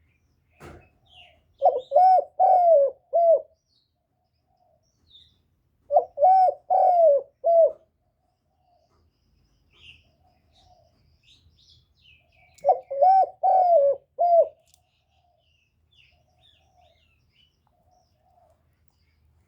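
Spotted dove cooing: three phrases of four or five hoarse coos each, a few seconds apart. It is a decoy bird's crowing call, the kind played to stir caged spotted doves into cooing.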